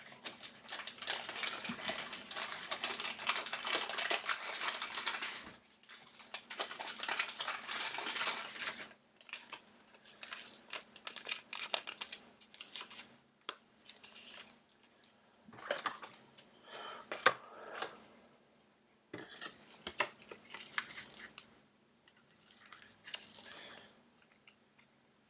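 Crinkling and rustling of plastic and foil card packaging as trading cards are handled and sleeved, with long steady rustling for the first nine seconds or so, then short irregular crackles and light taps.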